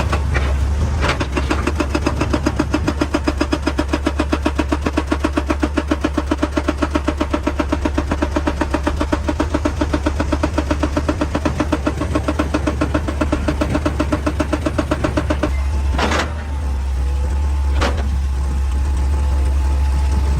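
Excavator engine running under load with a rapid, even pounding of about six beats a second that stops about fifteen seconds in. Two sharp knocks follow as the engine keeps running.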